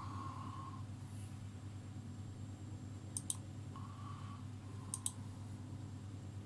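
Computer mouse clicking: two pairs of quick clicks, about three and five seconds in, over a steady low hum.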